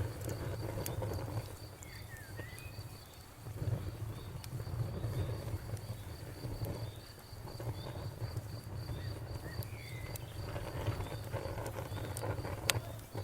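Campfire burning with a low rumble and scattered crackles, and one sharp pop near the end. A cricket chirps steadily in the background, about three chirps a second.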